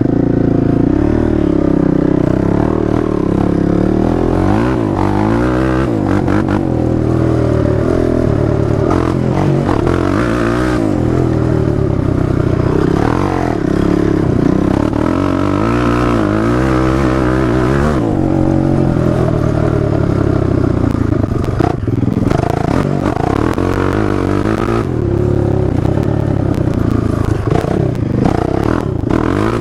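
A 2006 Honda TRX450ER quad's single-cylinder four-stroke engine under way, revving up and down over and over as the throttle is worked through the lap.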